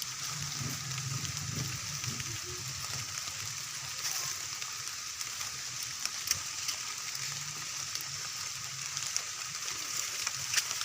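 Rain falling steadily: a continuous hiss with scattered small drop ticks.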